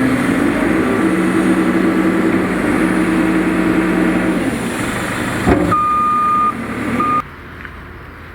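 A heavy engine running steadily. About five and a half seconds in there is a knock, then a high steady beep held for under a second and a second short beep, before the sound cuts to a much quieter background.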